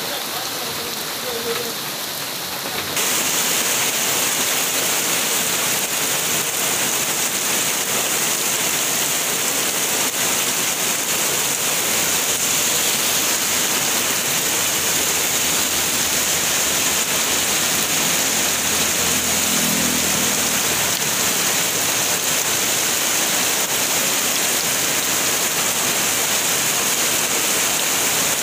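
Heavy tropical rain pouring steadily, a dense hiss. About three seconds in it turns louder and brighter as rain falling on a road takes over from rain on a wooden board.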